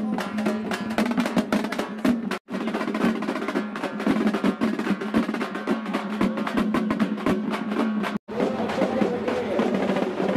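Fast drumming with rapid drum rolls over a steady drone. It drops out for an instant twice, about two and a half seconds in and again near eight seconds.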